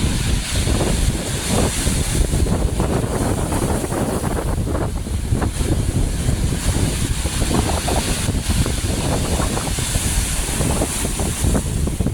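Strong sea wind buffeting the microphone: a steady, loud rush with rough, gusting low rumble throughout.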